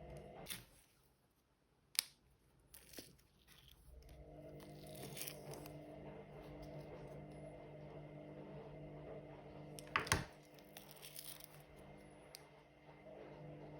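Washing machine running, its steady motor hum cutting out for a few seconds and coming back about four seconds in, with scattered clicks and a louder clunk and rustle about ten seconds in.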